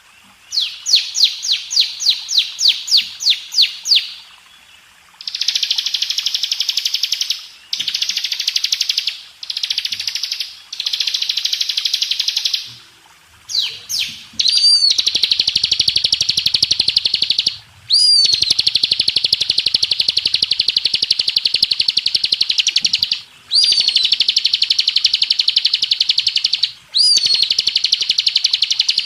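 Bar-winged prinia (ciblek) song, high-pitched. It starts with a quick string of about a dozen separate sharp chirps. Then come long, very rapid rattling trills, each lasting a few seconds, with brief breaks between them. From about the middle on, each trill opens with one sharp higher note.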